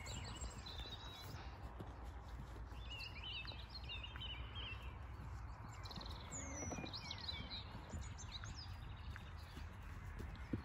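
Wild birds singing in short chirps and trills, in a cluster about three seconds in and again near seven seconds, over a steady low outdoor rumble.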